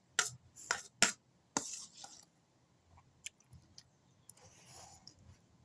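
Eating noodles and rice from a plate: four sharp clicks of a utensil against the plate in the first two seconds, then fainter clicks and soft eating noises.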